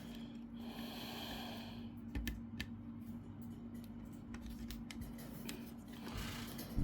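Faint small clicks and light scraping of fingers working a laptop fan's tiny plastic cable connector into its socket on the motherboard, a cluster of clicks about two seconds in, over a steady low hum.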